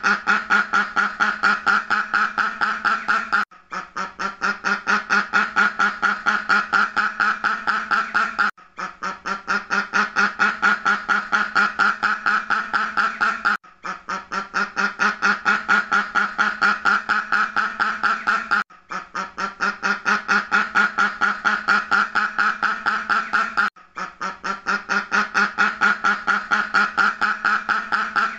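A duck quacking rapidly, about four or five quacks a second, in runs of about five seconds separated by brief pauses. It is the same run looped over and over.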